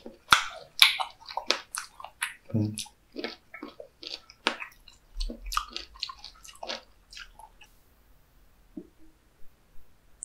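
Close-up chewing of chewy raw cuttlefish sashimi dipped in wasabi soy sauce: a quick run of wet, sticky mouth clicks and smacks. It is loudest in the first couple of seconds, thins out, and stops about eight seconds in.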